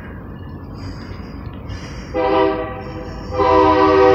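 Union Pacific locomotive air horn sounding for a grade crossing: a short blast about two seconds in, then a longer blast starting near the end, over a steady low rumble.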